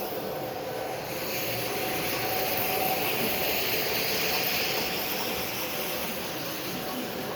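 Model train running past on a layout: a steady whir that swells and then fades, over the steady noise of the hall.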